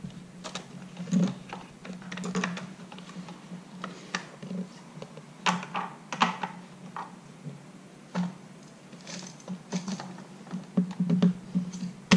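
Irregular light clicks and knocks of hard plastic toy pieces being handled and set down on a Fisher-Price Little People farm playset, over a faint steady hum.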